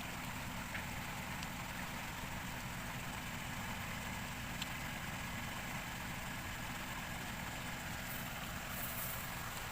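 4x4 off-road vehicle's engine idling steadily, with a single faint click about halfway through.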